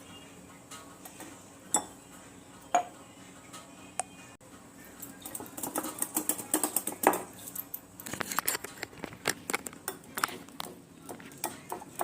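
Kitchen utensils clinking and knocking against cookware: a few separate knocks at first, then a dense run of quick clicks from about five seconds in.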